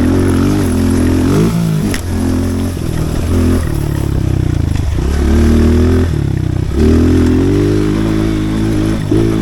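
Pit bike engine revving up and down repeatedly as it is ridden around a dirt track, the throttle opening and closing every second or two. A single sharp click about two seconds in.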